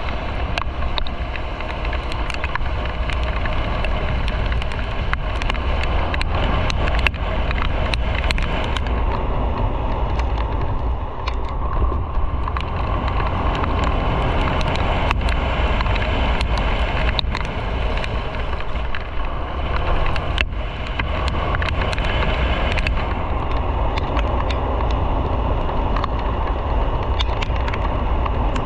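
Motorcycle on the move: a steady rush of wind and road noise over the engine, with scattered sharp ticks and knocks.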